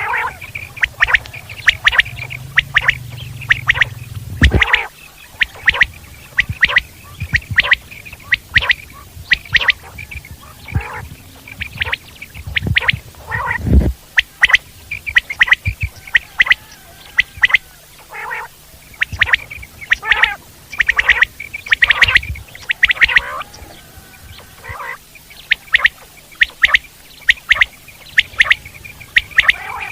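Common quail calling: short, sharp, liquid notes repeated in quick clusters of two or three, over and over. Two low thumps come about four and fourteen seconds in.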